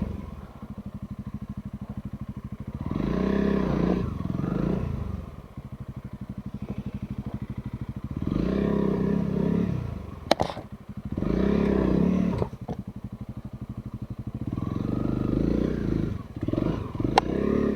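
Trail motorcycle engine ticking over, then revved in four short bursts as it rides. Two sharp knocks sound, one about two-thirds of the way through and one near the end.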